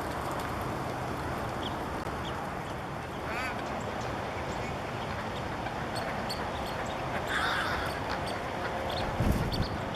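Steady wind rushing over the microphone, with a bird calling briefly about three and a half seconds in and again about seven and a half seconds in. A low thump comes near the end.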